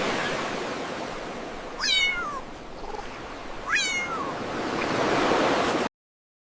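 A kitten mewing twice, two short high-pitched mews that fall in pitch, over a steady rushing hiss. The sound cuts off abruptly near the end.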